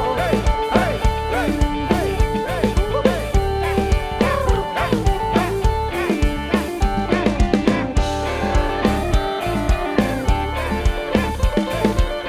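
Live rock band playing an instrumental passage: a guitar plays a lead line with bending notes over a drum kit and bass.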